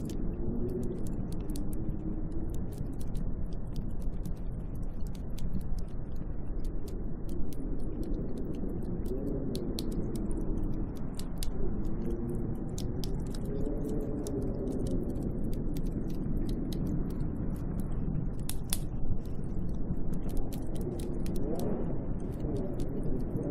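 Snowstorm wind howling, a steady low rush with a moaning pitch that slowly rises and falls, peppered with many small sharp ticks.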